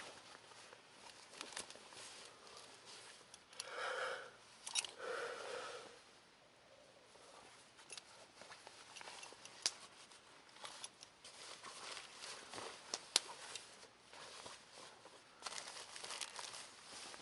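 Fabric rustling and crinkling as someone moves about in bivy or sleeping gear, louder twice around four to five seconds in, with scattered sharp clicks.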